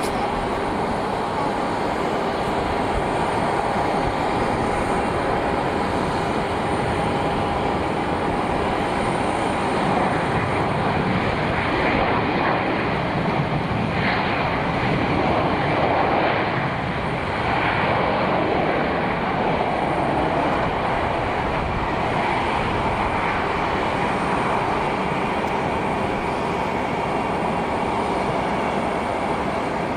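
Airplane engines running: a steady rushing noise with a constant whine, swelling a little around the middle.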